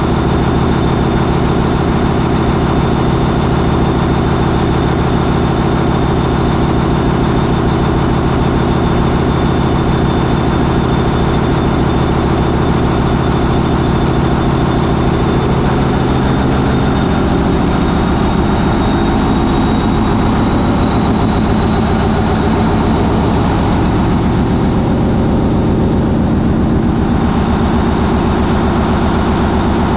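MAN 20V28/33D STC 20-cylinder marine diesel main engine running under power at high revs, with a high whine that climbs slowly in pitch. Its note changes partway through as the revs are raised toward 940 RPM.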